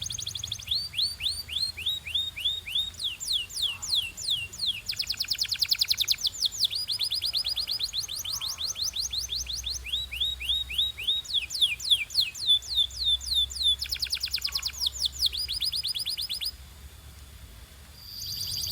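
Domestic canary singing: long trills of rapidly repeated downward-sweeping notes, switching every second or two to a faster or slower roll. The song breaks off briefly near the end before a held high note starts.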